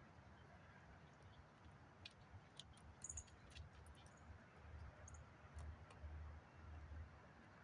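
Faint small-bird chirps, two brief high notes, among scattered light clicks and taps, over a low rumble.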